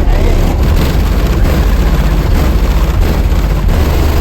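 Car audio subwoofers playing very loud, steady bass that starts suddenly and overloads the recording into a rough, distorted rumble.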